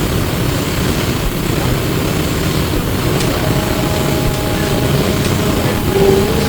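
Inside an E902 Flyer electric trolleybus on the move: steady low road rumble and body noise. A faint electric motor whine comes in about halfway and rises in pitch near the end as the bus picks up speed.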